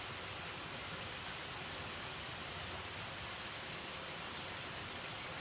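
Steady outdoor hiss with a thin, high, unchanging tone running through it.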